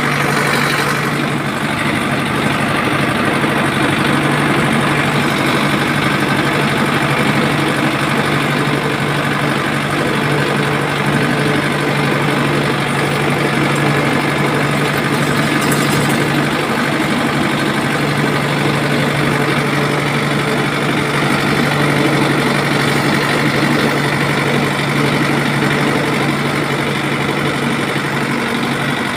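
A motor running steadily at an even speed with a constant low hum, unchanged throughout.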